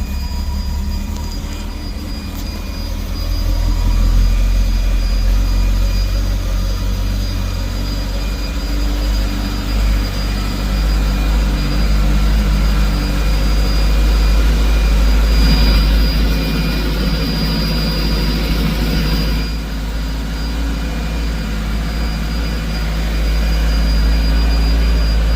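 2022 Campagna T-Rex RR's Kawasaki ZX-14R inline-four idling steadily just after a start, warming up so the oil drains more easily.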